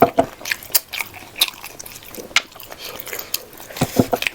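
Close-up chewing and mouth smacking of someone eating rice with pork leg gravy: irregular wet clicks and smacks several times a second.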